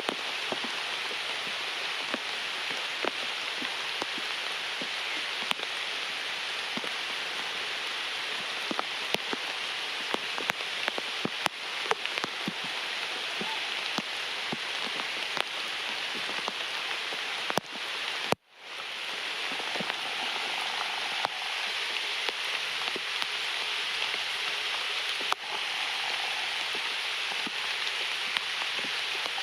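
Steady rain falling, with frequent sharp ticks of close drops hitting surfaces. The sound cuts out briefly about two-thirds of the way through, then comes back.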